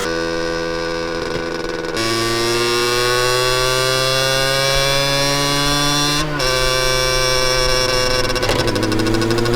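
Honda NS-1 two-stroke single-cylinder engine accelerating. It runs steady for about two seconds, then its pitch climbs for about four seconds, breaks briefly just past six seconds as it changes gear, and climbs again.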